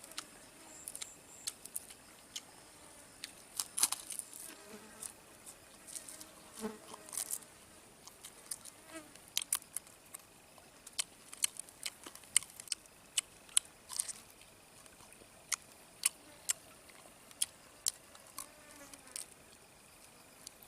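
A steady high insect buzz, with many sharp clicks and crackles scattered irregularly through it.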